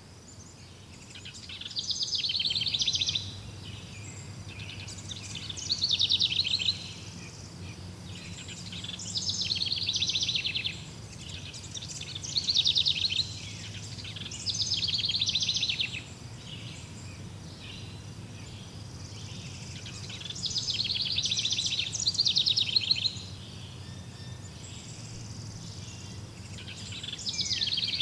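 Birds singing in bursts of rapid, high trilling, each phrase a second or two long, repeating every few seconds. Beneath the song runs a faint, steady low hum.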